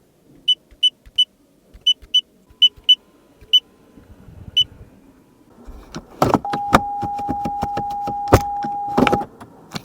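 A series of short, high electronic beeps at an uneven pace, followed about six seconds in by a run of sharp clicks under a steady tone that holds for about three seconds and then stops.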